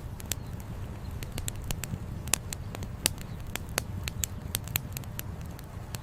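Wood campfire crackling, with frequent irregular sharp pops and snaps, the loudest about two and three seconds in. Beneath them is a steady low rush of flowing river water.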